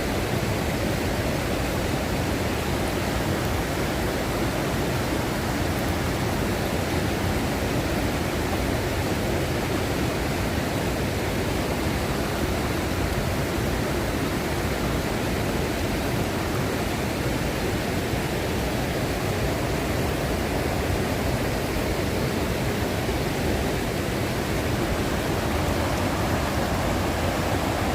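Waterfall roaring steadily, a loud, unbroken rush of falling water.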